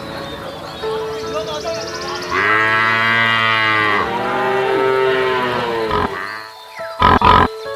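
Cattle mooing: two long calls, one right after the other, starting about two and a half seconds in. A few short loud knocks come near the end.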